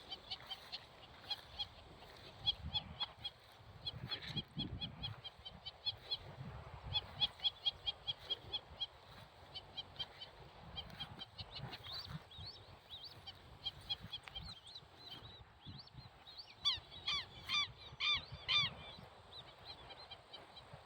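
Birds calling: a steady run of quick high chirps, then near the end a series of about six louder calls in close succession.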